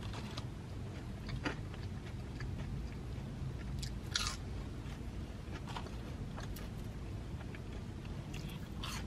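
A person chewing nacho fries with a few short sharp crunches, the clearest about a second and a half in and again about four seconds in, over a low steady hum inside a car.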